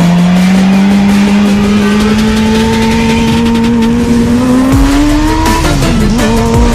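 A vehicle engine pulls steadily higher in pitch as it accelerates. About five and a half seconds in it drops briefly, as at a gear change, and then climbs again.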